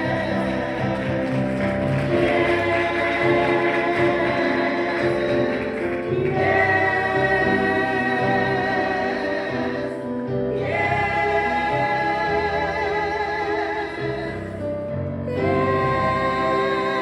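Church choir singing a gospel song, long held notes with vibrato, in phrases that pause briefly about every four to five seconds.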